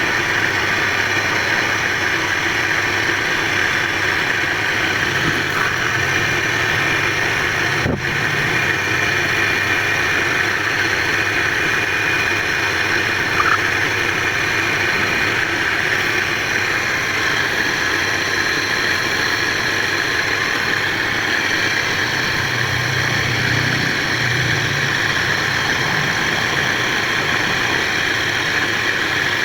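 Motor-driven wood lathe running steadily, a continuous machine hum and whirr with a brief sharp break about eight seconds in.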